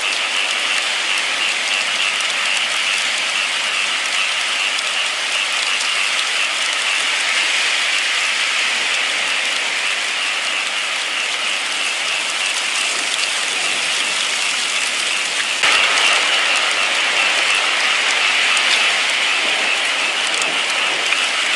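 Steady rain, an even hiss of falling drops. About three-quarters of the way through it abruptly turns slightly louder and fuller.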